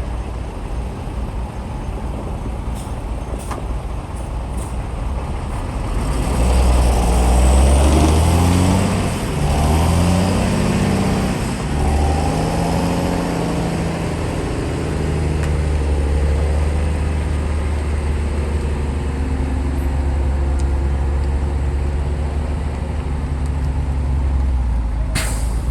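Heavy earth-moving machine's diesel engine under load. It runs low at first, then about six seconds in it revs up loud, its pitch rising and falling for several seconds, before settling into a steady heavy running.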